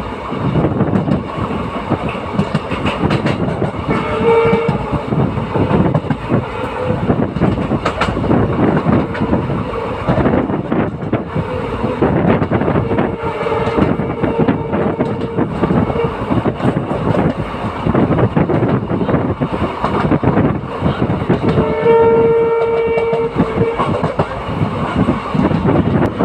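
Passenger train running at speed, heard from on board: a steady rumble with wheels clattering over rail joints. The locomotive's horn sounds three times: a short blast about four seconds in, a longer, fainter one midway, and a louder blast near the end.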